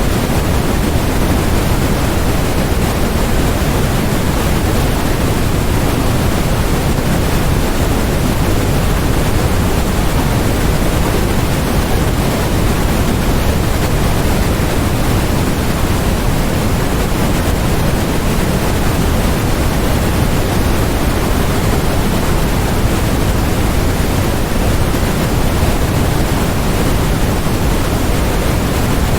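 Steady synthetic noise: an even, unchanging hiss with no events in it. It has more weight in the bass than in the treble, closer to pink noise than flat white noise.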